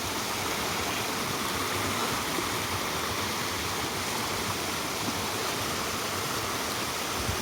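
Mountain stream running steadily, a continuous even sound of flowing water.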